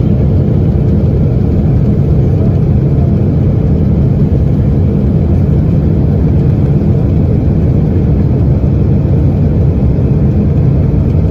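Steady, loud low rumble of an engine or vehicle that does not change.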